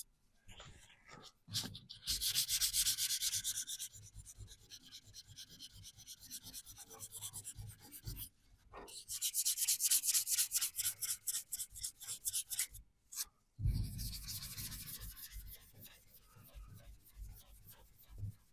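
Primer on a VW T25 van panel being rubbed down by hand with an abrasive, a rapid back-and-forth scratchy rasp. It comes in three runs of quick strokes with two short breaks.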